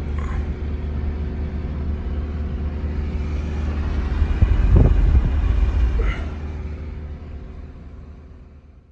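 Loud low rumbling noise, strongest about halfway through, then fading out smoothly over the last three seconds.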